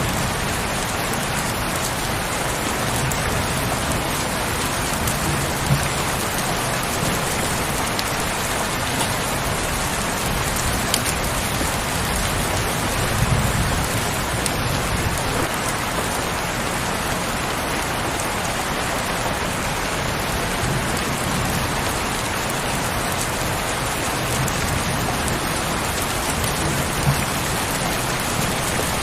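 Heavy rain falling steadily, a dense even hiss with a few louder single drop hits now and then.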